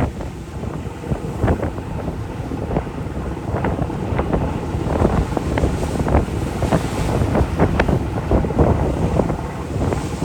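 Wind buffeting the microphone in irregular gusts, a steady low rumble with short sharp blasts, over the rush of the open sea.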